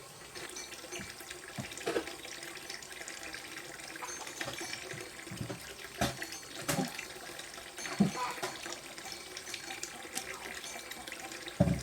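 Water running and splashing steadily, with a few sharper splashes scattered through.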